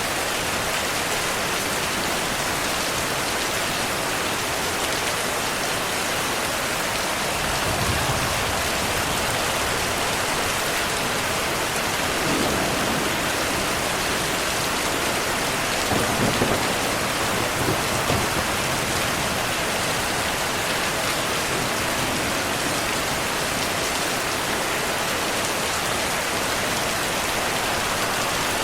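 Steady heavy rain hissing, with low rolls of thunder rumbling about a third of the way in and again around the middle, the loudest just past the middle.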